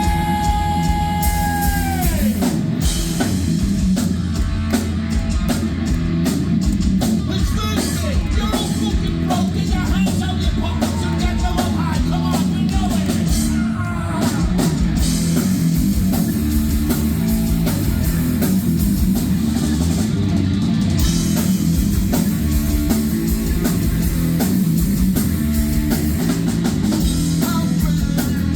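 Heavy metal band playing live, loud: distorted electric guitars, bass and a pounding drum kit. A held high note at the start slides down in pitch about two seconds in as the band comes in.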